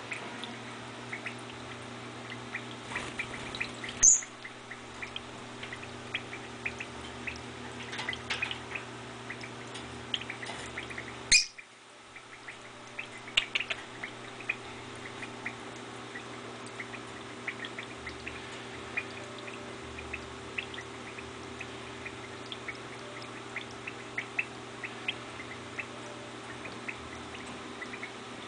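Peach-faced lovebird giving many short, scattered chirps, with two louder calls about 4 seconds and 11 seconds in, over a steady low hum.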